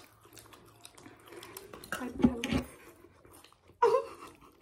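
A person chewing food close to the microphone, with a louder burst of chewing about two seconds in. A short voice sound comes near the end.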